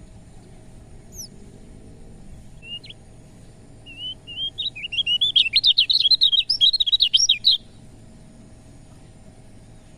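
Kecial kuning, a white-eye, singing. A few single high chirps come first, then at about four seconds a fast run of quick, high chirps lasting about three and a half seconds, which stops abruptly.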